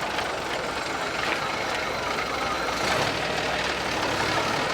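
A vehicle engine running steadily, with a continuous outdoor background hum.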